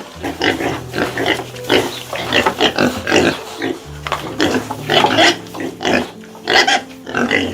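Short animal calls in quick succession, several a second, over background music with steady held notes.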